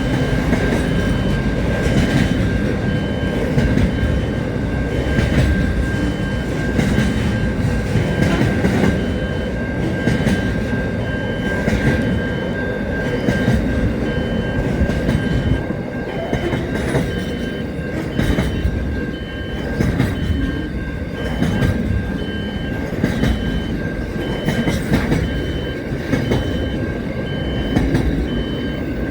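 A train running on rails, with a steady rumble, repeated clicks of the wheels over the track and a steady high whine throughout.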